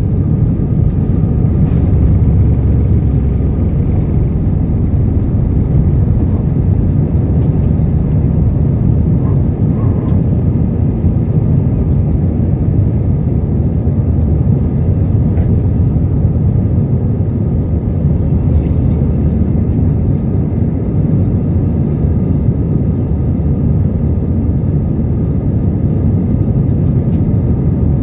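Steady low rumble of an Airbus A320 heard from inside the passenger cabin: engine and airflow noise, with a few faint clicks.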